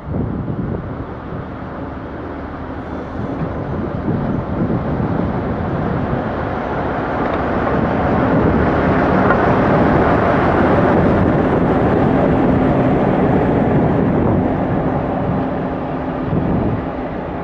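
A locomotive and its train passing close by, the running noise building to a peak about halfway through and then fading.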